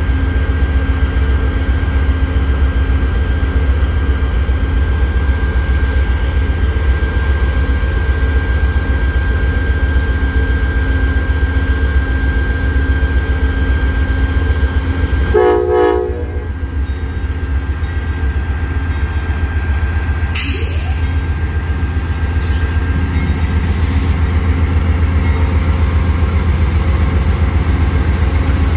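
Norfolk Southern manifest freight train passing close by, with a steady heavy low rumble. A short horn blast sounds about halfway through.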